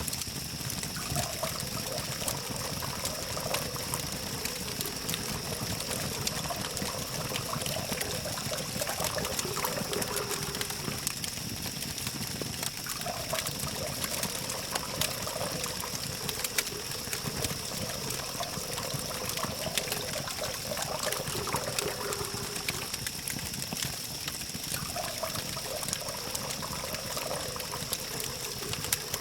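Campfire crackling with many small, irregular pops over a continuous hiss, mixed with the steady hum of distant city traffic and a steady high-pitched tone.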